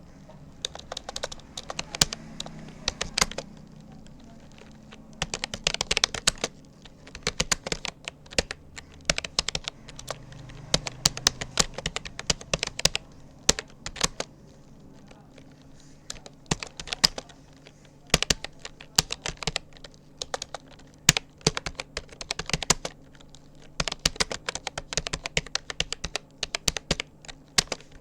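Typing on a Rapoo computer keyboard: a steady, irregular run of key clicks in quick bursts with short pauses between words, the space bar now and then giving a louder clack.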